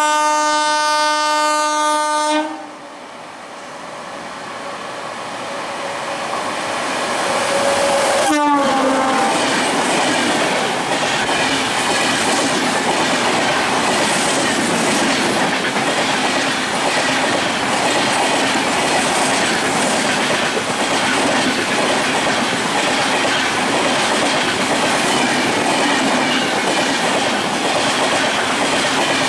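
An Indian Railways express train sounds its horn in one steady blast of about two and a half seconds. The train then approaches, growing louder, and passes close by at speed about eight seconds in with a sharp drop in pitch. Its coaches rush past with wheels clattering over the rail joints for the rest of the time.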